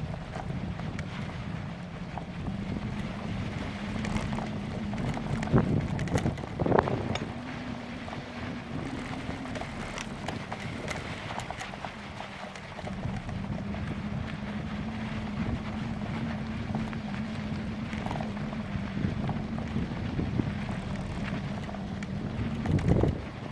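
Wind buffeting the microphone of a camera carried on a moving bicycle, over a steady low rolling hum from the ride. A few sharp knocks and rattles come from bumps, the loudest about six seconds in and just before the end.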